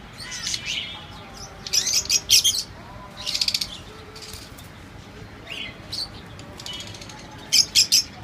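Small parrots chirping and chattering in short, rapid bursts, with the loudest bursts about two seconds in and again near the end.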